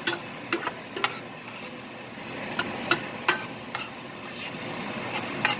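A utensil stirring ground chicken in a pan, knocking and scraping against the pan about ten times at irregular intervals, over a steady low sizzle of the food cooking.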